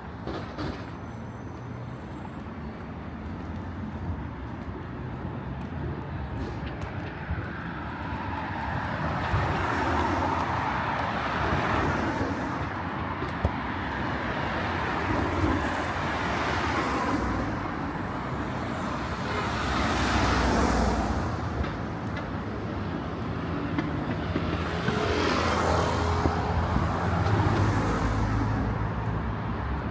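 Road traffic on a city street: cars passing one after another, each swelling up and fading over a low, steady rumble.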